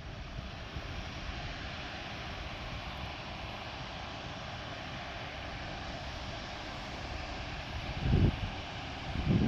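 Jet airliner engines at takeoff power, a steady rushing noise, with wind buffeting the microphone about eight seconds in and again near the end.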